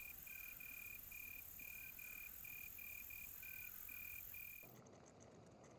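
A cricket chirping faintly: a run of short, high, same-pitched pulses, about two to three a second. Near the end the chirping cuts off abruptly, leaving a quiet hiss.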